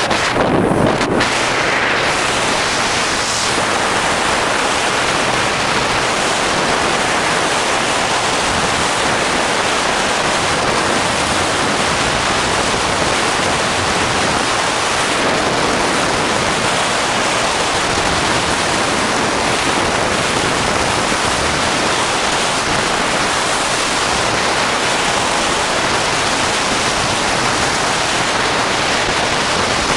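Steady rushing of wind and water around a motor cruiser running underway, with no distinct engine note standing out.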